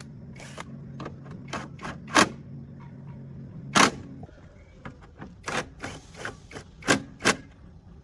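A series of sharp clicks and knocks. The loudest come about two seconds in, near four seconds, and twice close together near the end. Beneath them runs a steady low hum that stops about four seconds in.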